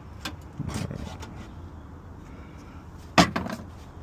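Workshop handling noise: a few light clicks and taps, then one sharp knock about three seconds in, as a tool or piece of sheet metal is handled and set down.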